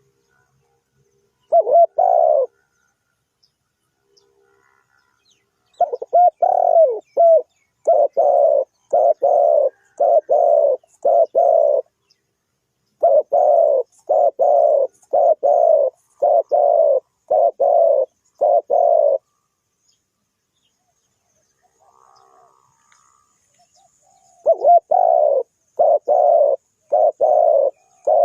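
Spotted dove cooing in bouts of short, repeated coos, about one to two a second, with pauses of a few seconds between bouts.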